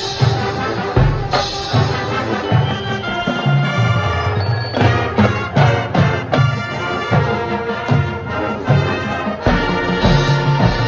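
High school marching band playing: brass holding pitched chords over steady, repeated low drum hits from the percussion section.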